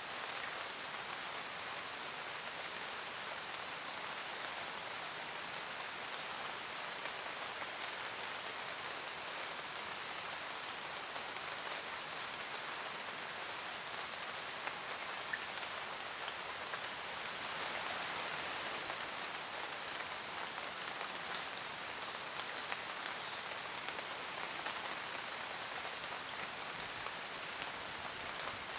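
Steady forest rain: a dense, even patter of raindrops with single drops ticking now and then. It grows slightly heavier a little past halfway, then eases back.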